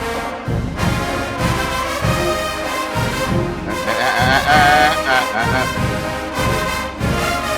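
HBCU marching band playing a full, harmonised brass arrangement over a steady beat of drums and low brass, with a wavering high brass line standing out about four seconds in.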